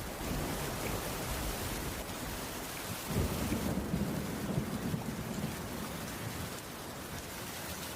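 Heavy rain falling steadily on a wooden cabin roof. A low rumble of thunder starts suddenly about three seconds in and fades over the next few seconds.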